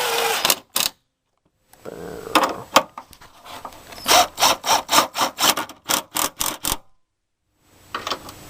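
Impact wrench working a side-post battery terminal bolt: a rough stretch of running, then a string of short bursts, about two or three a second, as the loose terminal is run tight.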